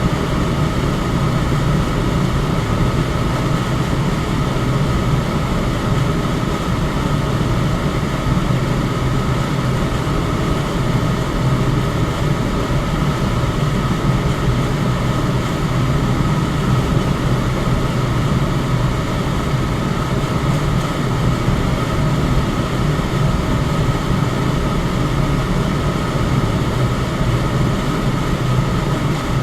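Electric fan running steadily: an even rush of air, strongest in the low range, with a faint steady high tone above it and no change throughout.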